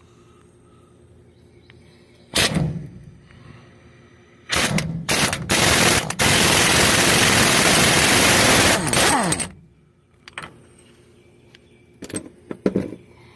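Impact wrench removing the pinion nut on the rear-end yoke: a short burst about two seconds in, a few stuttering bursts, then a continuous rattling run of about three seconds that winds down in pitch as it stops. A few light metal clatters follow near the end.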